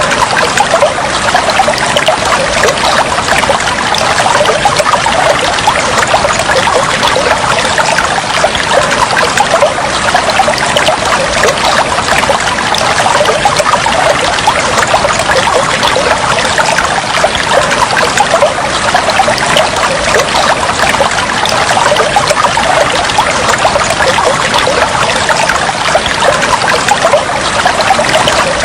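Water flowing and trickling in a steady, unbroken stream, an even splashing hiss with no pauses or changes.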